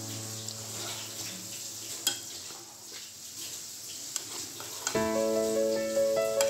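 Beef meatballs sizzling and crackling as they deep-fry in hot oil in a pot, with a couple of sharp clicks. Piano music fades out in the first second and comes back about five seconds in.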